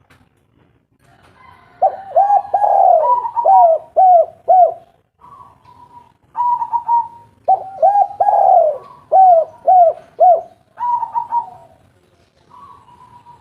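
Spotted dove cooing: two long phrases of repeated coos, with shorter single coos between and after them.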